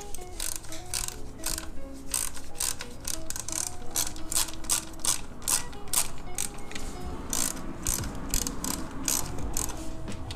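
Socket ratchet clicking in quick irregular runs as bolts are driven back in, over background music.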